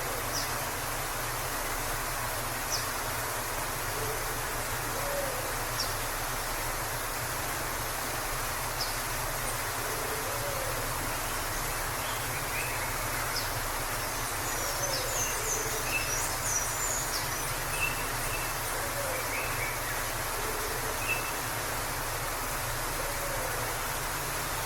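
Waterfall rushing steadily. Over it, a faint low bird call repeats every couple of seconds, and songbirds chirp briefly about halfway through.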